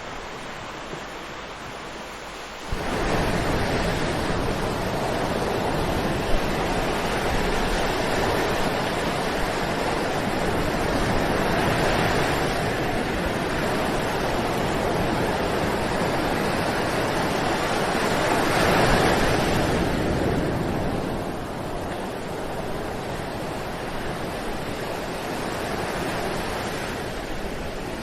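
Ocean surf washing onto a beach: a steady rush of breaking waves. About three seconds in it becomes suddenly louder, then swells twice near the middle before easing.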